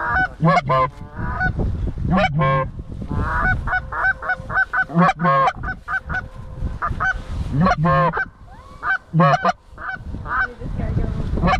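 Canada goose calling: loud, short honks and clucks in quick runs and bursts, some honks with a low note breaking to a high one, typical of hunters working goose calls at incoming geese.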